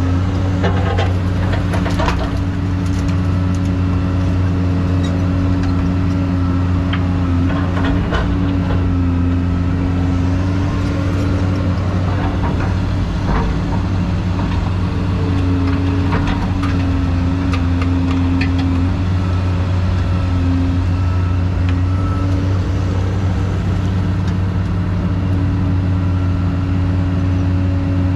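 Excavator's diesel engine running steadily, its pitch dipping and recovering slightly as the load changes, with a few short knocks and rattles scattered through.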